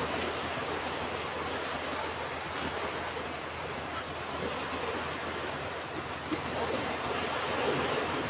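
Ocean surf washing onto a beach, a steady rush of breaking waves that swells a little louder near the end.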